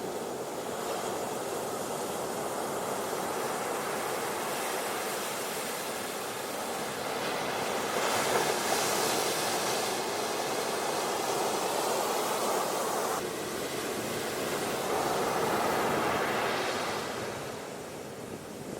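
Ocean waves washing onto a beach: a steady rushing surf that swells louder about eight seconds in and again near fifteen seconds.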